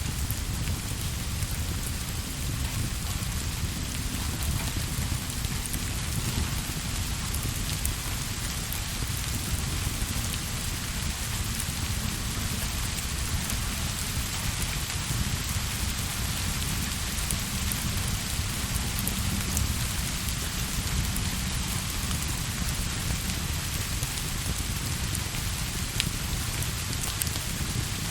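Steady rain: an even hiss with a continuous low rumble underneath, and a few faint isolated clicks.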